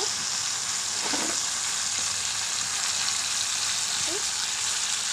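Boiled jackfruit pieces frying in masala in a karahi: a steady sizzling hiss.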